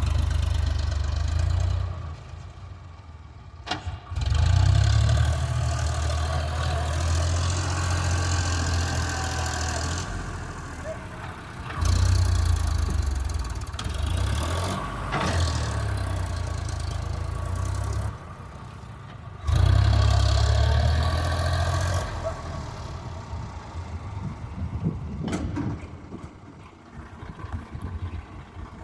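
Tractor engine running, revving up and dropping back to idle several times, with a steady low hum. The longest runs at raised revs last about five to six seconds each. It settles to a quieter idle for the last several seconds.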